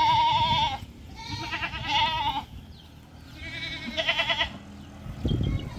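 Goats bleating: three long, quavering bleats about a second apart. A short low thump comes near the end.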